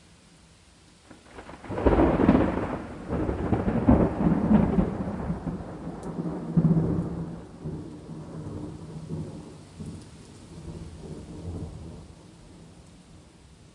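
A peal of thunder over faint steady rain: it breaks suddenly about two seconds in, rolls with several swells, and dies away over the next ten seconds.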